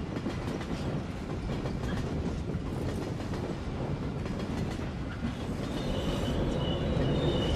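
Electric commuter train running at speed: a steady low rumble with clatter from the wheels and track. About six seconds in, a high steady squeal comes in and the sound grows louder.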